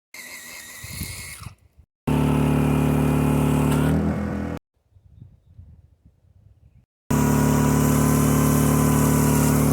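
An engine running at a steady speed, heard in two stretches that start and stop abruptly, with a quieter patch between them.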